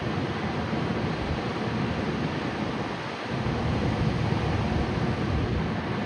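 Steady rushing roar of a Tokyo Waterfront Area Rapid Transit 70-000 series electric train running on the rails, with no horn, dipping briefly about halfway through.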